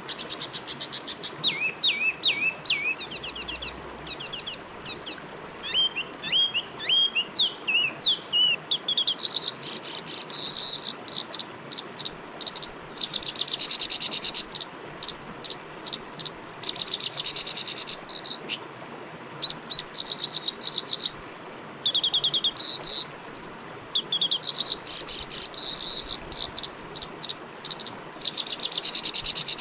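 Songbirds calling with repeated quick downward-sweeping whistles, giving way about nine seconds in to rapid chirping trills in bursts, over a faint steady rush of flowing river water.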